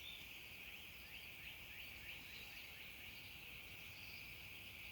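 Faint outdoor ambience: a steady high-pitched drone with faint, quick repeated chirps over it.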